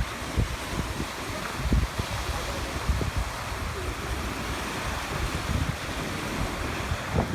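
Ocean surf washing on a beach, a steady wash of noise, with wind buffeting the microphone in irregular low gusts.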